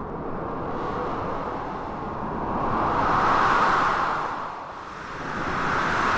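Storm ambience of blizzard wind and crashing sea waves: a continuous rushing noise that swells to a peak about three seconds in, eases just before five seconds, then swells again near the end.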